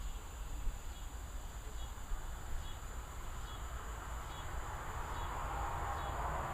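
Distant thunder rumbling low and continuously under evening insects: a steady high insect drone and a short chirp repeating a little under once a second. A broader rushing sound swells near the end.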